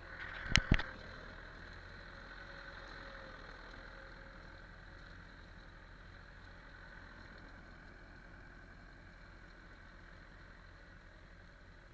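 An engine idling steadily, with two sharp knocks in quick succession about half a second in.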